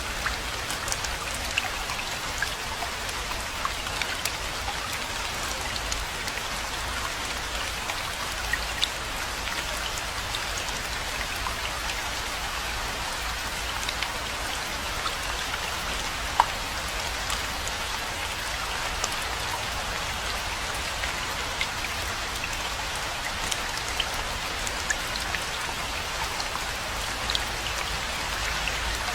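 Steady rainfall: an even hiss of rain with many single drops ticking sharply through it, and a low steady rumble underneath.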